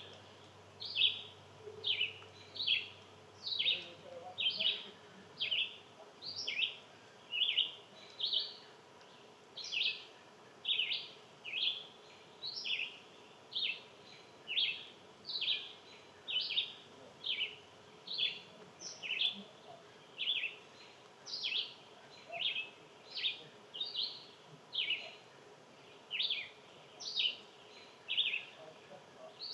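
A long, even series of short, high chip calls, each slurring downward, repeated about twice a second without a break, from a small bird or mammal.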